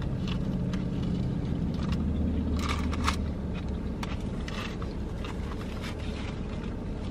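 A bite into a soft sub sandwich followed by close-up chewing, with scattered wet mouth clicks and a few crisper crunches about three seconds in, over a steady low hum of the car cabin.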